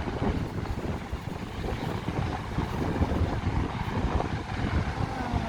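Strong wind buffeting the microphone in gusts, a rough low rumble that swells and dips.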